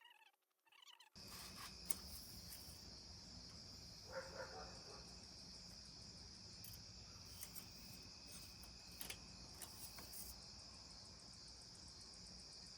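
Faint steady chirring of crickets, with a low hum and a few light clicks; it starts abruptly about a second in.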